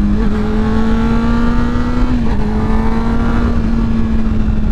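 Motorcycle engine under way, heard from a helmet-mounted microphone: its pitch climbs slowly, drops about two seconds in with a gear change, then climbs again, over a low rumble of wind on the microphone.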